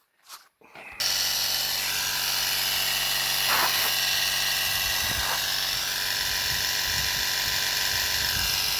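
Small 12-volt portable air compressor switching on about a second in and running with a steady buzz, pumping up a low ATV tire to find a leak.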